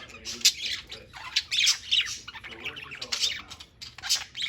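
Budgerigars chattering, a rapid run of overlapping chirps and squawks.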